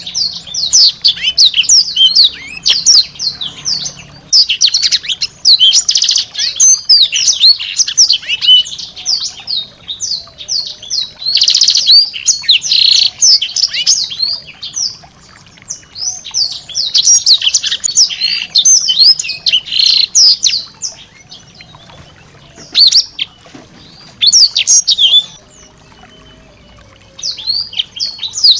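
Small songbird singing long, rapid runs of high, sharp chirps and quick falling notes, broken by brief pauses, with a longer lull near the end.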